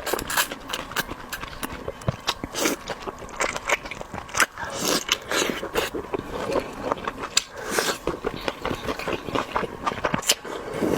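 Close-up eating of seafood: irregular crunching, clicking and smacking as shellfish is bitten, pulled apart and chewed.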